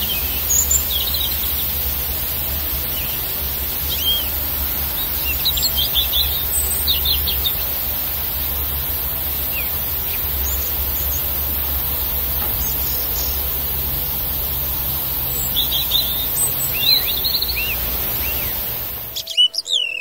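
Small songbirds chirping and calling in short scattered phrases over a steady outdoor background with a low rumble and a high hiss. The sound cuts off suddenly near the end.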